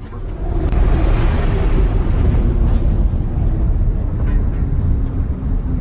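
Airliner in flight: a loud, steady deep rumble that swells in over the first second.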